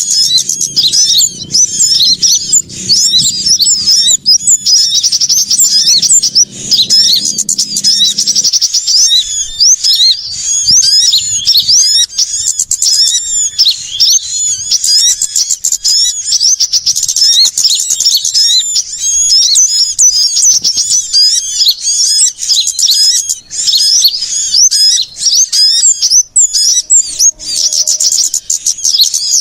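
Dense, loud chorus of many small songbirds chirping and trilling rapidly and without pause, a bird-lure (pikat) recording made to draw small birds in. A low hum sits under the birds for about the first eight seconds, then stops.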